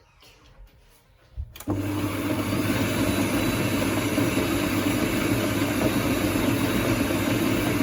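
Electric mixer switched on about a second and a half in, then running steadily as it whisks eggs, oil and sugar together.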